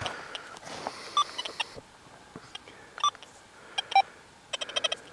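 XP Deus 2 metal detector's audio as the coil sweeps over a cluster of iron nails hiding a clad dime, with iron tone on: scattered short beeps and blips at a couple of pitches, and a quick run of them near the end.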